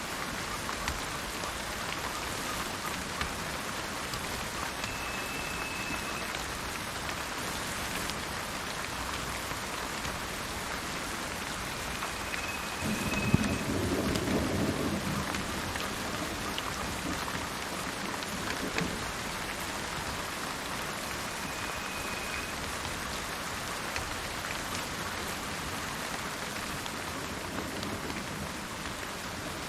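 Steady rain falling, with one low roll of thunder about halfway through that swells and fades over a couple of seconds. Three short high whistled notes come through the rain at intervals.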